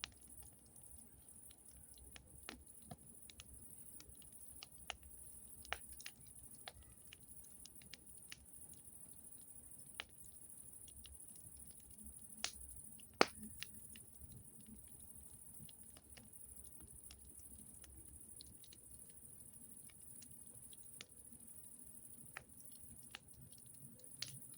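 Campfire crackling: faint, irregular pops and snaps, with one louder snap about halfway through.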